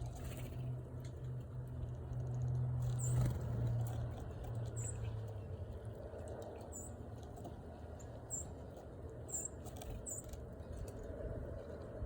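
Small birds giving short, very high chip calls every second or two, with a few faint clicks, over a steady low hum that fades out about five seconds in.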